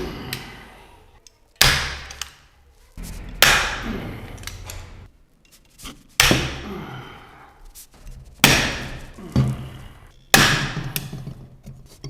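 A hand rivet gun setting blind (pop) rivets into an SC-Project CRT exhaust: about five sharp metallic snaps, roughly two seconds apart, as each rivet's mandrel breaks off. Each snap is followed by a ringing tail that dies away over about a second.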